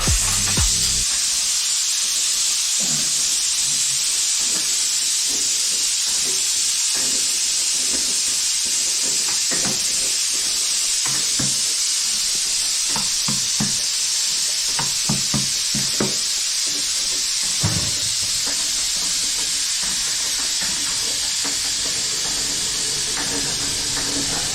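Food sizzling in a hot pan: a steady hiss, with scattered short knocks and clicks.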